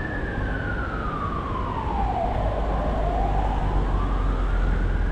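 Fire engine siren in a slow wail, its pitch falling through the first half and rising again through the second, over a low rumble of street traffic.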